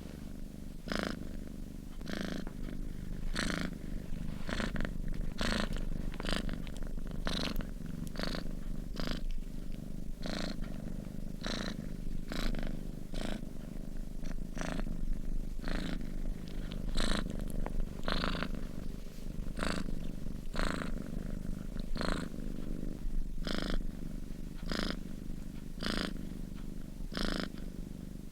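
Sleeping domestic cat purring steadily: a low rumble with short breathy rasps, about one to two a second, as it breathes in and out.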